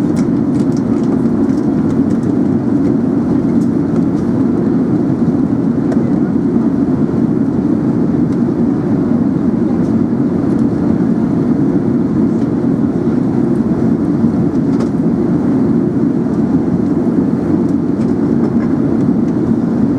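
Airbus A380 cabin noise in flight: a steady, even rumble and rush of engine and airflow noise.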